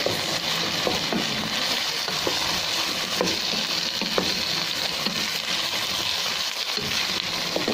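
Freshly added diced potatoes sizzling in hot oil in a pan, stirred with a wooden spatula. A steady hiss of frying with a few light ticks from the spatula against the pan.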